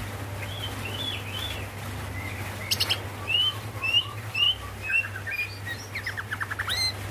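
Female green leafbird (cucak ijo) calling for a male: a series of short, upward-arched chirps, then a quick rattling run of descending notes near the end. A sharp click sounds a little before halfway, over a steady low hum.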